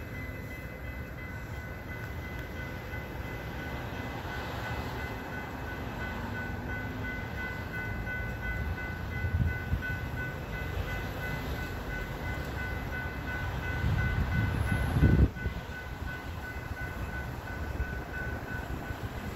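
Train rumbling past a grade crossing, with the crossing bells ringing in an even, steady rhythm. The rumble swells louder about fourteen seconds in, then drops off suddenly.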